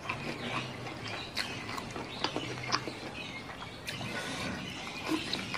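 Close-miked eating sounds: wet chewing, lip smacks and sharp mouth clicks, coming at an uneven pace as rice and chilli-sauced squid are eaten by hand.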